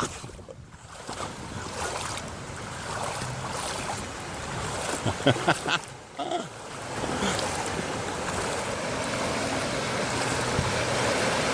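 A vehicle's engine running as it drives through floodwater, over a steady wash of moving water. There are a few short clicks about halfway through, and the engine hum grows louder in the second half.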